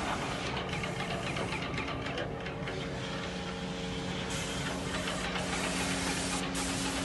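Yokiji YKJ720 airless paint sprayer running, its piston pump giving a steady hum under the hiss of high-pressure paint spraying from the gun. The hiss grows stronger about four seconds in, with a few short breaks.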